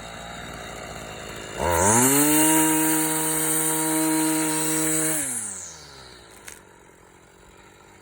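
A motor spins up sharply about one and a half seconds in, runs at a steady pitch with a high hiss for about three and a half seconds, then winds down.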